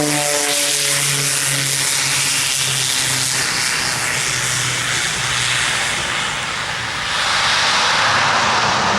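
Raytheon King Air C90A's twin turboprop engines and propellers running loud as the aircraft passes, the propeller tone sliding down in pitch over the first few seconds. The roar swells again and turns brighter about seven seconds in.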